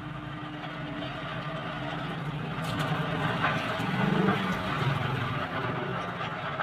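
Engine of a vehicle or road-works machine running steadily, growing louder about four seconds in.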